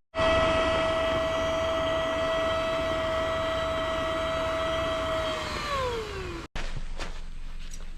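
Small electric motor running with a steady high whine, then winding down in pitch as it is switched off; the sound cuts off suddenly shortly after.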